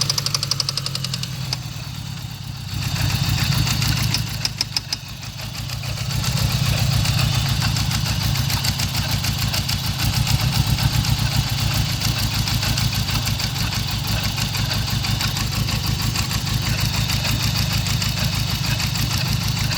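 Engine of a 1995 GSX idling with a rapid, steady knock; the idle sags and picks back up a couple of times in the first six seconds, then settles. It is running on its first start after sitting for over a year, and the owner suspects rod knock from spun rod bearings.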